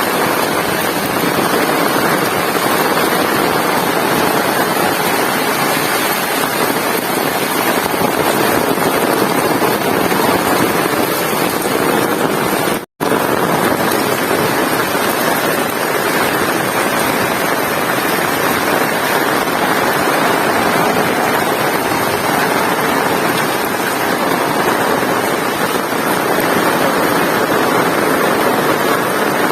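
Heavy rain pouring down steadily, a dense even hiss, broken by a brief dropout to silence about 13 seconds in.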